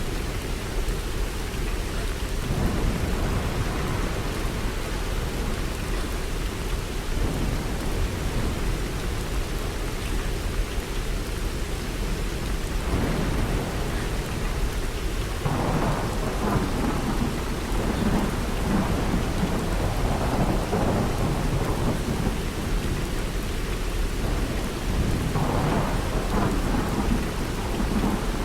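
Heavy rain falling steadily, with a continuous low rumble that swells louder in waves through the second half.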